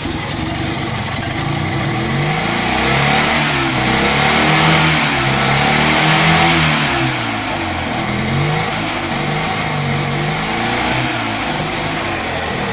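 The Invacar's small engine running after a carburettor clean, revved up for a few seconds mid-way and settling back. It is not sounding happy.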